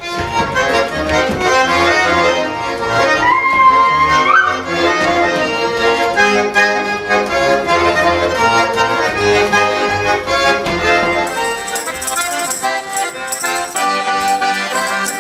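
Russian folk music played on an accordion, with quickly changing notes and a sliding high note about three to four seconds in.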